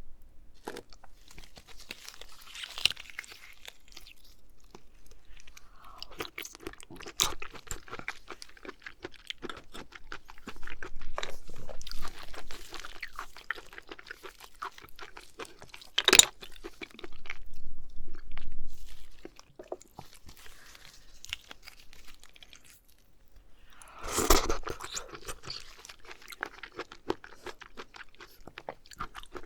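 Close-miked eating of raw oysters: wet chewing with many scattered small clicks, and a sharper click about sixteen seconds in.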